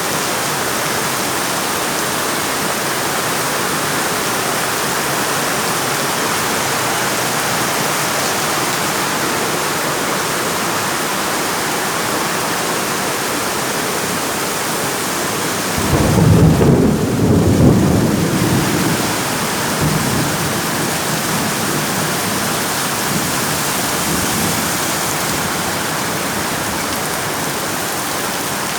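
A downpour of rain falling steadily. A little past halfway, a roll of thunder rumbles for a few seconds and fades.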